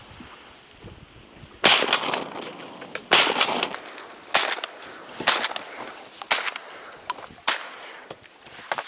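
A run of sharp bangs, about one a second, the first two with a short ringing tail.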